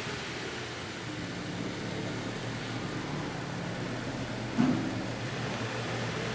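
Audi A7's engine idling steadily, with a single knock about four and a half seconds in.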